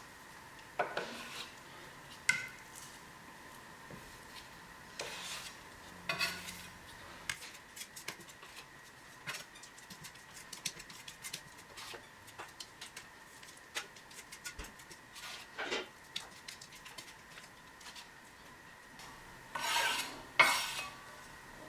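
A spatula scooping multi-filler from its container and spreading it onto a wall: scattered scrapes, taps and clicks of the blade, with a few louder scraping strokes, the loudest near the end.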